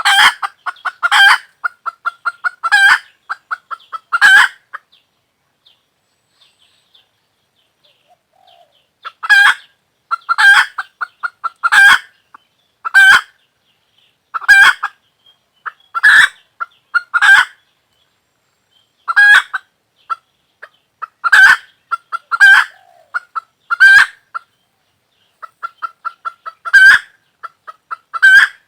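Hen cackling: runs of quick short clucks, each ending in a loud drawn-out squawk, repeated about every second. There is a pause of about five seconds a few seconds in.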